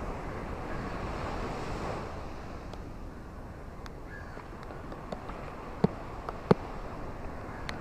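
Ocean waves washing on a shore: a steady rushing that swells over the first couple of seconds, then eases. In the second half come scattered sharp clicks, two of them much louder and close together.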